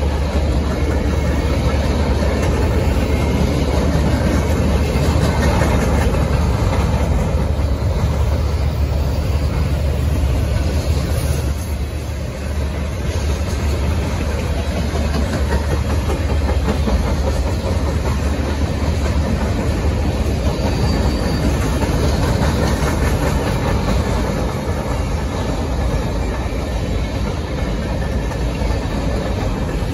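Freight train cars rolling past: a steady, loud sound of steel wheels running on the rails, heaviest in the low range, easing briefly about twelve seconds in.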